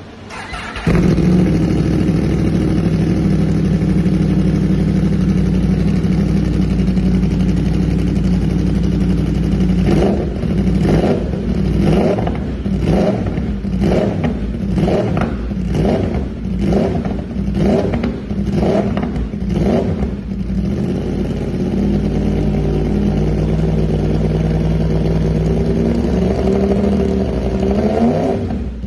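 Yamaha R1M crossplane inline-four through an Austin Racing exhaust, loud, coming in about a second in and idling steadily. Midway it gives a run of about a dozen quick throttle blips, roughly one a second. It then settles back to idle and revs up once near the end.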